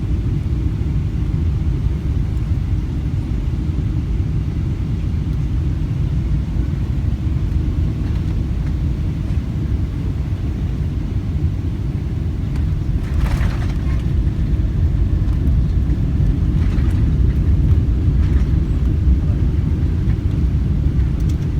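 Steady low rumble of an airliner heard from inside the passenger cabin during landing, with no single jolt standing out.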